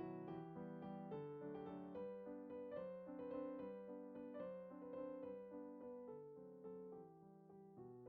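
Soft background piano music, a gentle melody of quick repeated notes over steady chords.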